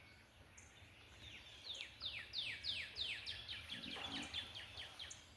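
A songbird singing a long run of rapid, evenly spaced down-slurred notes, about five a second, beginning about a second in.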